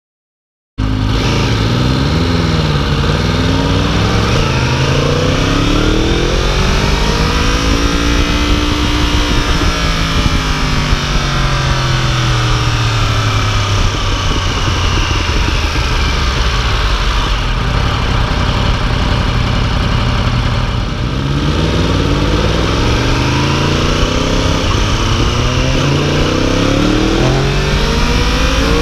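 2015 Yamaha YZF-R1's 998 cc crossplane inline-four running under way, its pitch rising and falling as the throttle and gears change, over a steady rush of noise. The sound starts abruptly about a second in.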